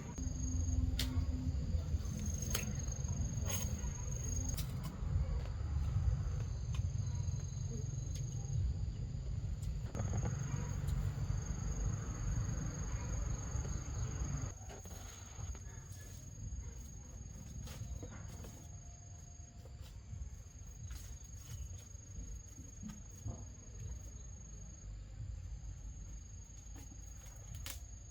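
Insects calling with a steady, high, thin trill that breaks off and resumes, over a low rumble that drops off about halfway through, with scattered clicks.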